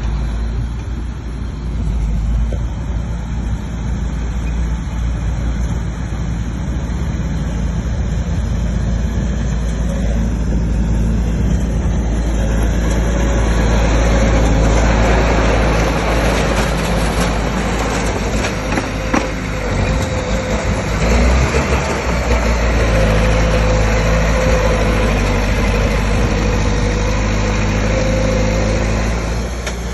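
Bulldozer's diesel engine running steadily, growing louder and rougher about halfway through as it works harder pushing soil, with a faint steady whine in the later part.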